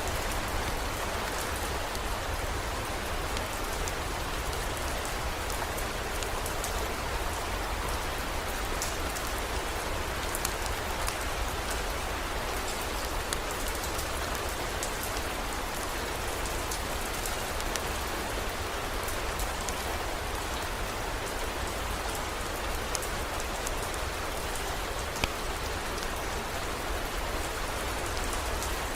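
Steady heavy rain falling on hard surfaces, an even hiss with fine scattered drop ticks and a steady low rumble underneath.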